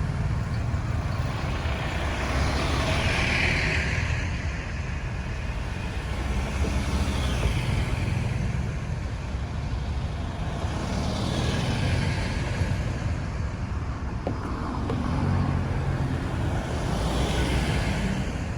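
Road traffic: a steady low engine rumble, with several vehicles passing in turn, their hiss swelling and fading about four times.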